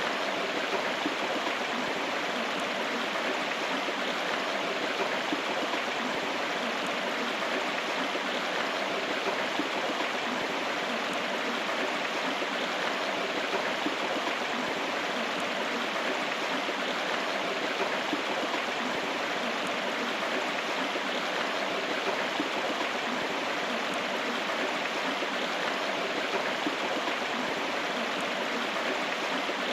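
River water flowing and babbling steadily.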